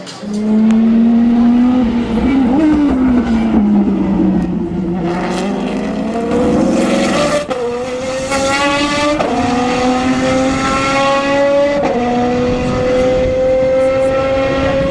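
Maserati MC12 GT1 Corsa's V12 engine running loud on track. Its pitch eases down over the first several seconds, then the car accelerates hard through three upshifts, each a sudden drop in pitch followed by a steady climb.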